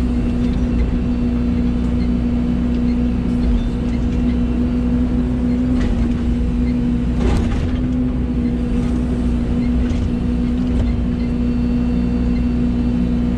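Excavator diesel engine running steadily at an even drone, with a couple of brief knocks from the machine's work about six and seven seconds in.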